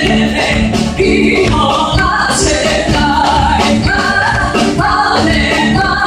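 Live band music with a singer, playing continuously at a steady loud level.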